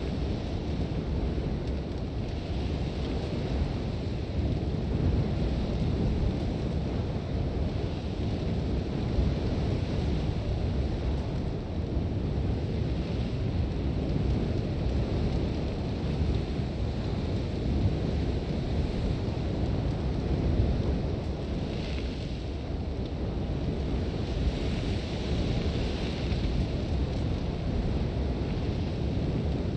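Sandstorm wind blowing hard and steadily, heavy and rumbling at the low end, with a higher hiss of blowing sand that swells briefly about two-thirds of the way in and again shortly after.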